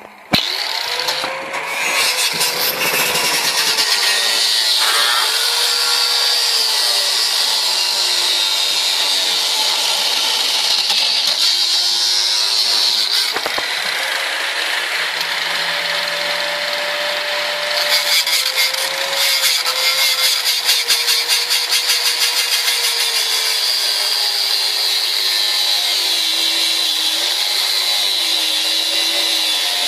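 Volvo V40 engine running hard at high revs, its pitch wandering slowly up and down, with a strong hiss over it. About two thirds of the way in, a fast, even pulsing joins the sound for several seconds.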